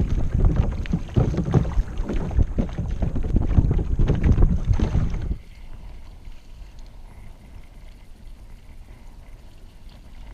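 Wind buffeting the microphone with a gusty low rumble, dropping abruptly about five seconds in to a faint steady hiss.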